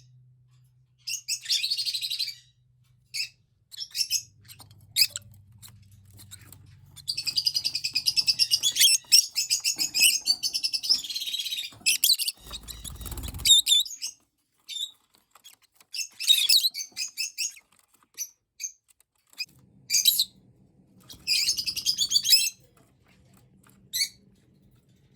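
Rosy-faced lovebirds chirping in bursts of rapid, high chirps, with a long run of several seconds near the middle, as a baby lovebird is fed. A dull low thump comes about halfway through.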